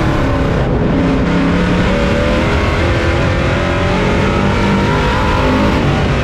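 Pro truck's racing engine heard from the onboard camera in the cab, running hard with the engine note falling and rising as the driver lifts and gets back on the throttle through the laps.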